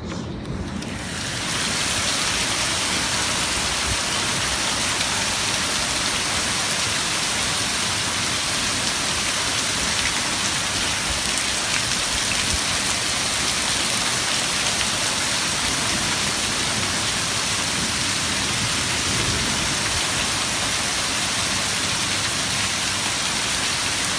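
A steady rush of falling and splashing water, swelling over the first two seconds and then holding even.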